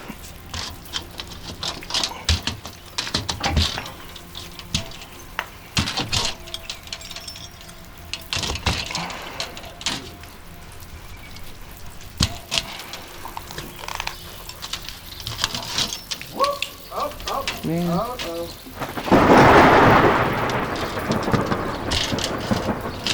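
Metal flashing being pried and pulled off a building: scattered knocks, clicks and scrapes, with a loud rattling rush about nineteen seconds in as the strip comes loose.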